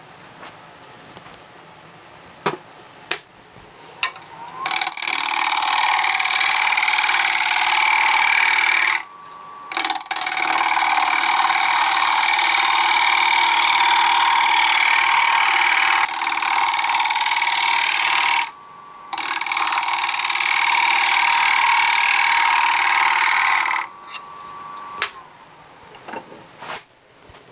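A turning tool cutting into a bark-edged wooden blank spinning on a wood lathe: a loud, steady shearing noise in long passes, broken off twice for a moment when the tool is lifted, with the lathe's faint motor whine in the gaps. The first few seconds are quieter, with a few light clicks before the cutting starts.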